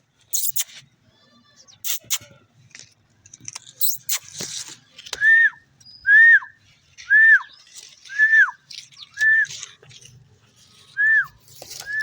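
A parrot whistling the same short note over and over, about once a second, each note rising and then dropping sharply. A few short, harsh, high-pitched noises come before the whistles start.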